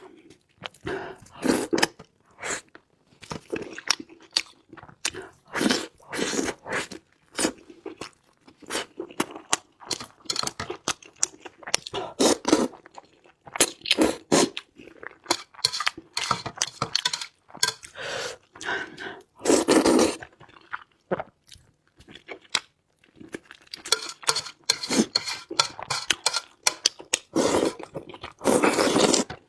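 Close-miked chewing and crunching of food, a steady run of irregular wet bites and crunches with a few louder crunches about two-thirds of the way in and near the end.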